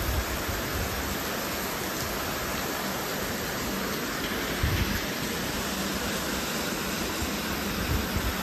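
Steady monsoon rain falling on a wet concrete yard, an even hiss at a constant level. A few low thumps come through about five seconds in and near the end.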